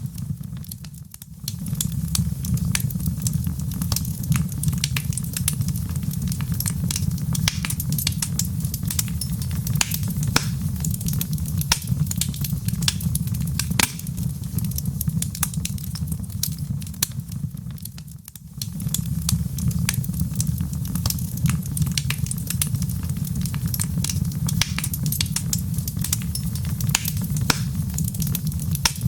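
Wood fire in a fireplace crackling, with dense irregular pops and snaps over a steady low rumble of the flames. The sound dips briefly about a second in and again a little past the middle.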